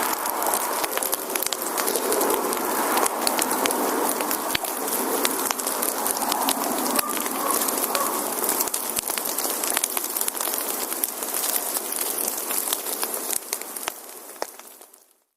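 Wood fire burning, with dense crackling and popping of the firewood over a steady hiss. It fades out near the end.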